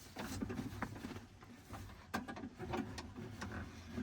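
Scattered light clicks and knocks of hand tools and metal parts being worked inside a pickup truck's door, one sharper click about two seconds in, over a low rumble.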